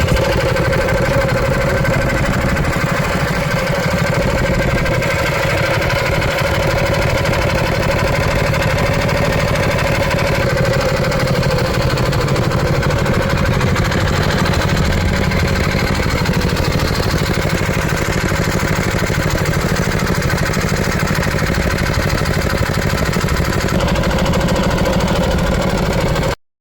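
212cc single-cylinder four-stroke engine with its governor removed, running steadily on an MB200S minibike, holding a fairly even pitch; the sound cuts off abruptly near the end.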